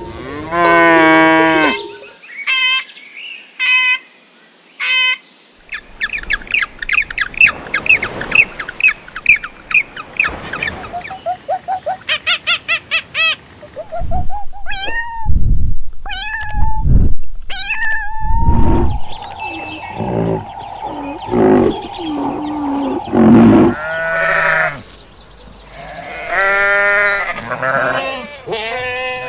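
A string of different animal calls, one after another: short separate cries, then a fast run of repeated calls, then squawks that glide up and down, and wavering calls near the end.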